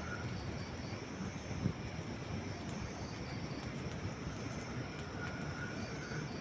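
Campfire of dry wood logs burning with a steady low rush and sparse crackles, with one sharper pop about two seconds in.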